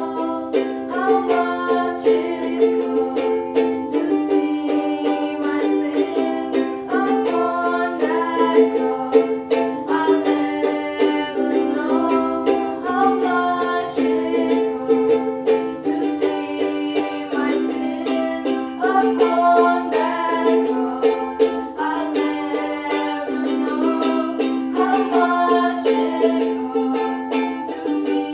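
Music: a strummed string instrument playing chords in a steady rhythm.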